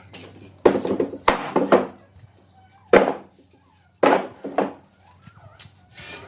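Heavy blows struck on wood, about six in an uneven rhythm, each a sharp hit that dies away quickly.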